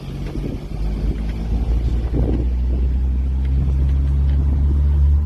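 Volkswagen Kombi van engine running while driving, a steady low rumble that grows louder about a second in and holds.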